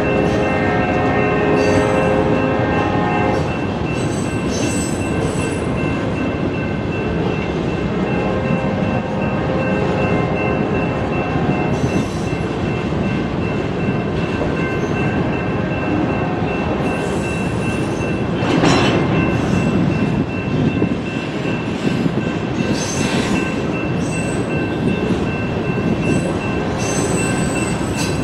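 Freight train rolling past close by, a steady loud rumble of wheels on rail with thin high squealing tones running through it. A cluster of steady tones cuts off a few seconds in, and there is a brief louder clank about two-thirds of the way through.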